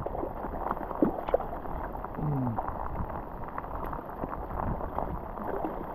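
Rain pattering on the water and the board, a steady hiss scattered with small sharp ticks and taps. A short falling voice sound about two seconds in.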